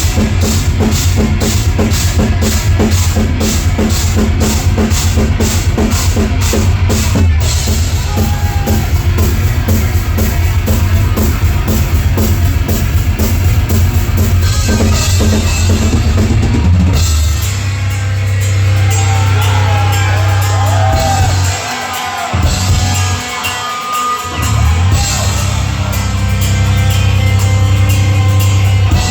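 Live heavy metal band playing loud: fast, driving drumming with cymbals for the first half. From about 17 seconds in, an electric guitar lead with bent notes plays over held low chords, with two short breaks.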